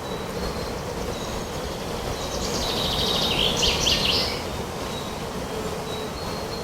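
Steady wind noise through a forest, with a songbird singing one quick phrase of rapid high notes about two seconds in and short faint high bird calls scattered around it.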